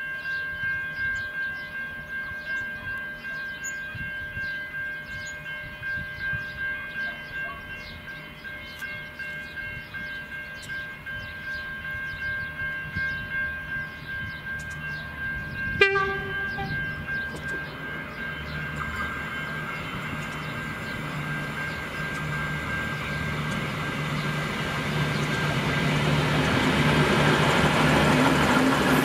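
V/Line VLocity diesel multiple unit approaching and then passing at speed, its diesel engines and wheels on the rails building to a loud rush near the end. For the first half there is a steady ringing that pulses about twice a second, and a short, sharp blast comes about halfway through.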